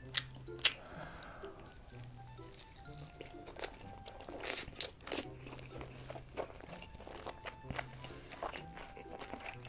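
Close-miked chewing of a mouthful of steamed dumpling meat and dough, with wet clicks and smacks of the mouth, over soft background music.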